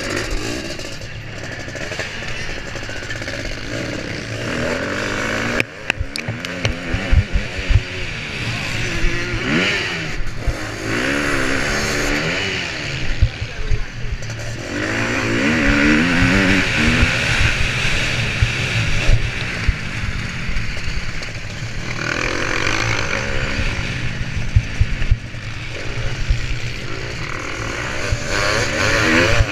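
Motocross bike engine revving up and down repeatedly as it is ridden around the track, heard close up from an onboard camera. Short low thumps come in a cluster about a quarter of the way through.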